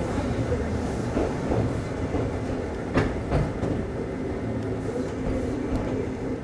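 Kōnan Railway 7000 series electric train running along the track, heard from inside the cab: a steady rumble and hum of wheels on rail, with a few sharp clicks of the wheels over the rail, the clearest about three seconds in.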